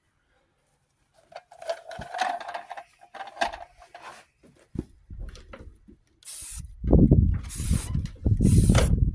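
Aerosol spray can of gray primer spraying in short bursts, three hisses of about half a second each in the last three seconds, over a loud low rumble. Earlier there are scattered, less distinct handling sounds.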